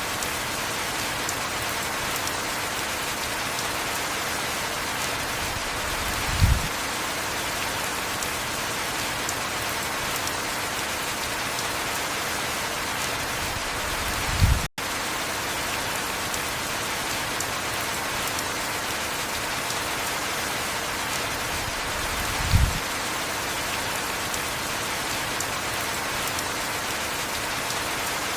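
Heavy rain falling steadily, an even hiss. A short low thump comes about every eight seconds, three times, and the sound cuts out for an instant about halfway through.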